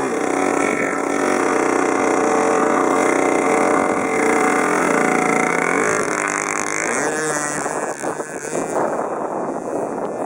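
RC model airplane's motor and propeller running with a steady whine, its pitch dipping and rising again about six to seven seconds in as the throttle changes. Toward the end the whine fades into gusty wind noise on the microphone.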